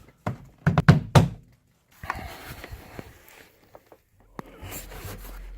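Plastic retaining clips of a Mercedes SLK 230 door speaker grille being pressed into the door panel: a few sharp thunks and clicks in the first second or so, then softer handling noise.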